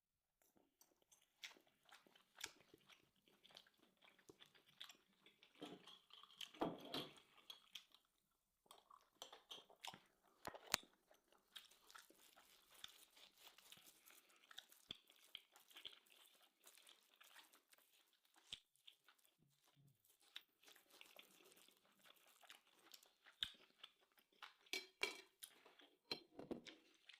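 A person chewing and crunching food close to the microphone: soft, irregular mouth clicks and crunches, with a few louder crunches about a third of the way in and near the end.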